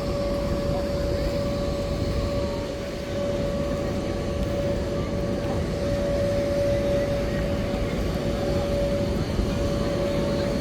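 A machine running steadily: a constant whine over a deep rumble.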